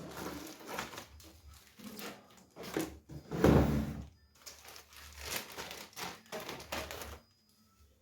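Plastic zip-lock bag rustling and crinkling in irregular handfuls as paper-towel-wrapped bundles of coriander are pushed into it, loudest about halfway through and stopping about a second before the end.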